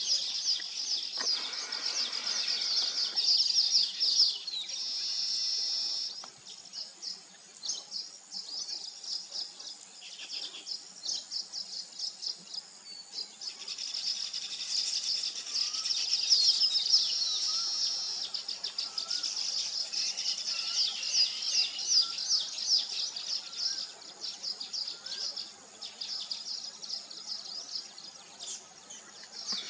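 Weaver birds chattering and twittering: a dense stream of rapid, high-pitched notes that swells and eases, with a few fainter, lower whistles in the second half.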